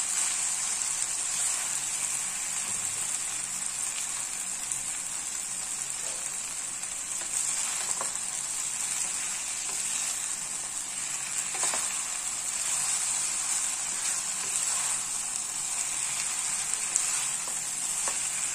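Millet noodles and sauced vegetables sizzling in a hot nonstick pan while being tossed and stirred with spatulas. A steady frying hiss runs throughout, with a few faint knocks of the spatula against the pan.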